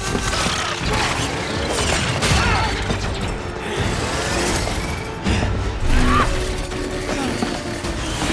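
Action-film soundtrack: music under a dense mix of mechanical clatter, crashes and impacts.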